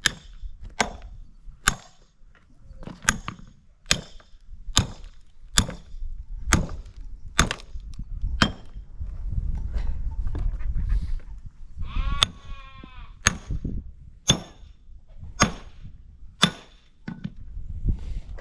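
Axe chopping firewood: sharp blows about once a second, pausing for a few seconds midway. A sheep bleats once in the pause.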